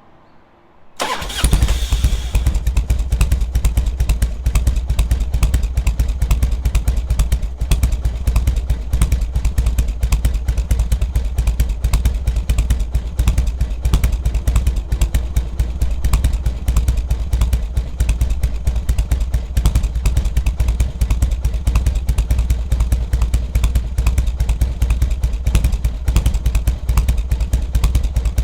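2003 Harley-Davidson Softail Standard's Twin Cam V-twin engine started about a second in, catching at once, then idling steadily through an aftermarket muffler.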